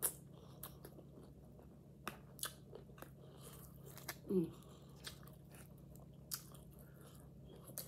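Close-miked chewing and biting of a crisp quesadilla, with scattered sharp crunches and wet mouth clicks. A short falling hum from the eater comes about four seconds in.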